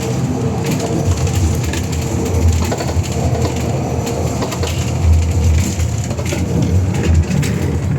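Scania K320UA bus's five-cylinder diesel running with a low rumble and irregular clunking knocks through it: a strange clunking noise, which the uploader takes as a sign that the bus is broken.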